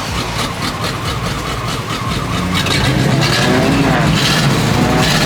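A 1990s GMC Sierra's 5.7-litre V8 running just after being started and being revved. From about halfway in it gets louder, and the pitch rises and falls.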